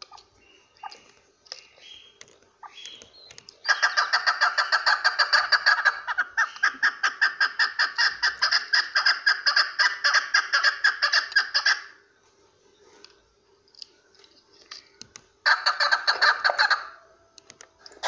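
Chukar partridge calling: a long run of rapid, evenly repeated clucking notes, about eight a second, lasting some eight seconds with a brief break partway through, then a shorter burst of the same notes near the end. Faint scattered chirps come before the run.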